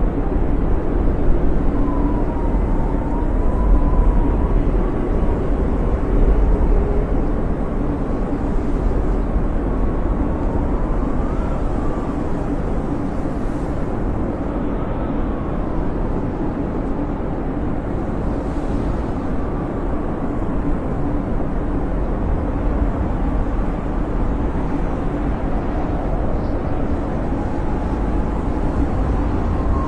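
Snowstorm wind howling: a steady rumbling roar with a faint whistle that wavers up and down in pitch.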